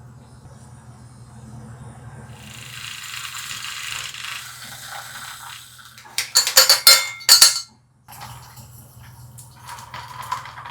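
Liquid being poured into a glass, then several loud clinks and rattles of glass, then lighter kitchen clatter, over a low steady hum.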